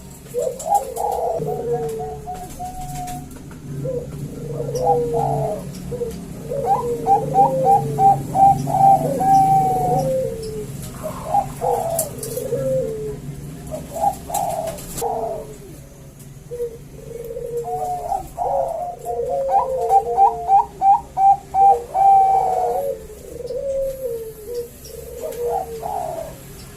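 Two male zebra doves (Bangkok perkutut) cooing and answering each other, their calls overlapping. Twice a call builds into a run of quick repeated notes ending in a held note.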